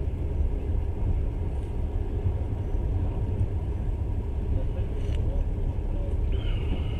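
Steady low rumble of a moving passenger train, heard from inside the carriage, with a brief high-pitched tone near the end.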